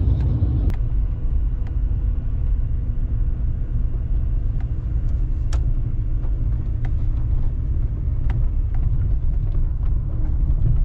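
Pickup truck running, a steady low rumble of engine and road noise, with a few sharp clicks and rattles.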